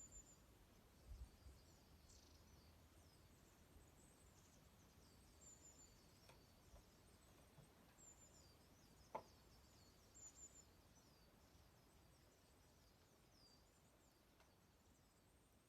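Small birds chirping faintly, a flock's many short, high calls and down-sliding notes, with a single sharp crackle from a wood fire about nine seconds in.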